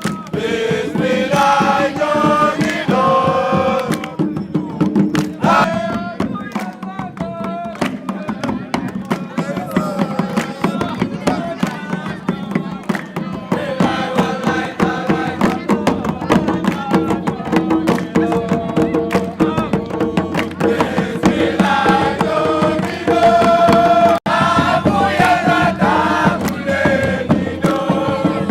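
Voices singing together in a chant, over steady rhythmic percussion.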